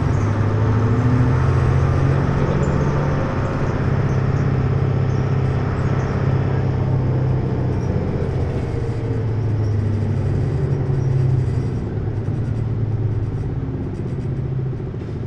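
Hino U-HT2MLAA city bus's diesel engine and drivetrain running under way: a steady low drone that eases off near the end. The bus is prone to abnormal noises, and its owner likens its sound to another bus of the same fleet near the end of its service life.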